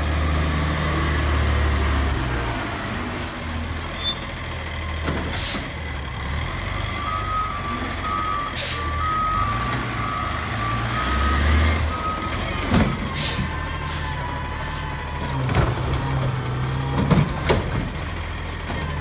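Recycling garbage truck's diesel engine running, with its backup alarm beeping about eight times in the middle. Several short, sharp hisses of air brakes are heard, and a few knocks come near the end.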